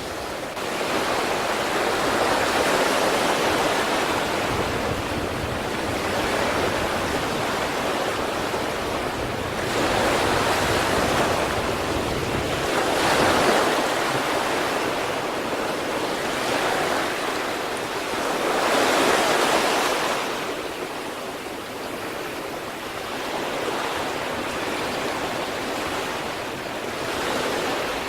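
Sea waves breaking and washing on the shore, a continuous rush that swells and eases every few seconds, with the loudest breaks about 13 and 19 seconds in.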